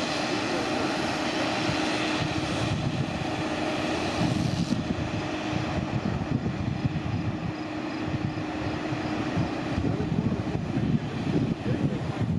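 Engine-driven rail tool grinding steel rail at a diamond crossing: a steady engine drone under a harsh grinding hiss. The sound changes about three and five seconds in, and gets rougher near the end.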